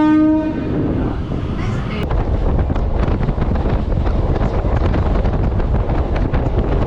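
Electric suburban train running: a horn sounds at the start and cuts off about half a second in, then a steady rumble of the moving train with wind on the microphone and a rapid scatter of rattling clicks.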